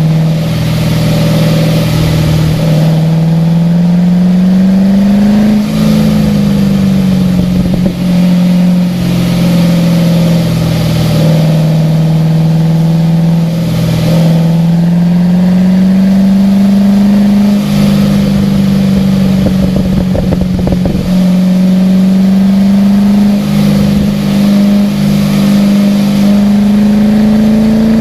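Race car engine running at speed on a soaked track, its note rising and falling gently through the corners with a few brief lifts, over a steady hiss of water spray.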